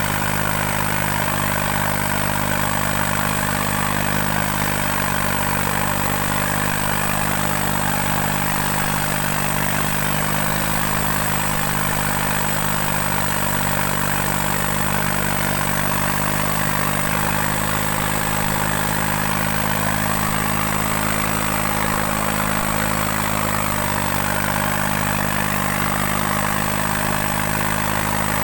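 New Holland 3630 tractor's three-cylinder diesel engine running steadily while pulling two harrows, its pitch dipping slightly about two-thirds of the way through.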